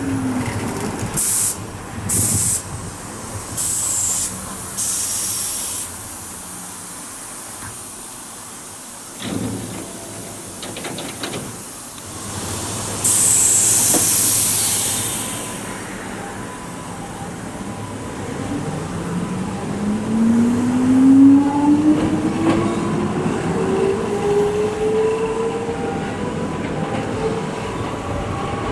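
Nose Electric Railway 5100 series electric train at the platform: several short bursts of air hiss, then a longer, louder hiss about halfway through, after which the train pulls away with a motor whine rising steadily in pitch.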